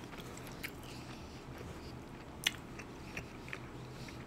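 Faint chewing close to the microphone: soft mouth noises with a few small clicks, the clearest about two and a half seconds in.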